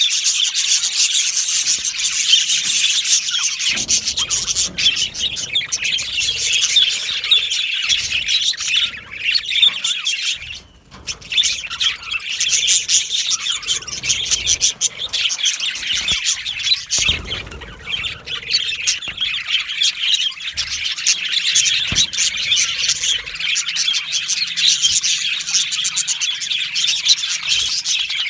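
A flock of budgerigars chirping and chattering continuously, many birds at once, with a brief lull about ten seconds in.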